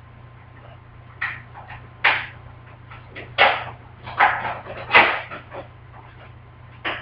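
About six short rustling, knocking handling noises spaced a second or so apart, the loudest about five seconds in, over a low steady hum.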